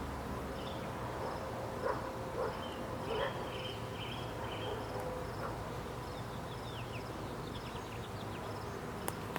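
Honeybee swarm buzzing steadily.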